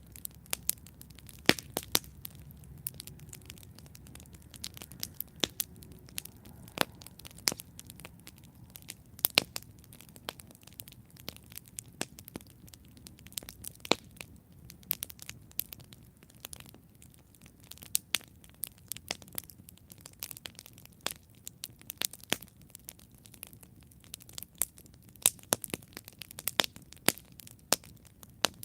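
Campfire burning: irregular sharp crackles and pops of burning wood over a low, steady rush of flame, with the pops bunching into quick flurries now and then.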